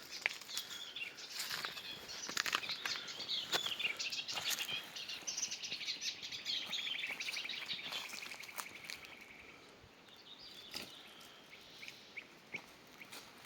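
Small birds chirping and singing, with a long, rapid trill in the middle that slowly fades away, among scattered light clicks and knocks.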